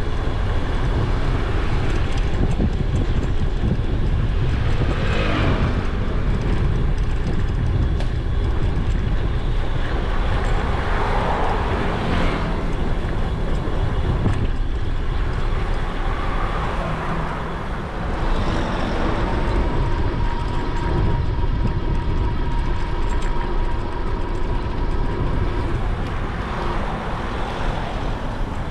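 Riding wind rumbling on an action camera's microphone on a moving e-bike, with road traffic passing; a couple of vehicles swell past, and a steady whine runs through the last third.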